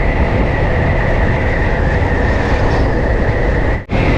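Steady rush of wind and road noise from riding a Yamaha FZ V2 motorcycle, with the bike's engine running underneath. The sound cuts out for an instant near the end.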